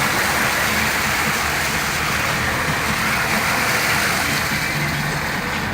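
Floodwater rushing past in a steady, continuous roar, with a faint low hum underneath.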